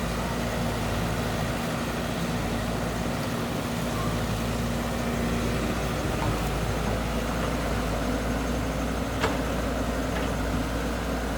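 Heavy diesel engine of the earthmoving machinery running steadily, with one sharp click about nine seconds in.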